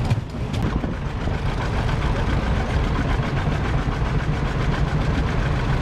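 Vintage farm tractor engine running steadily as it drives past, a constant low rumble with rapid even firing pulses.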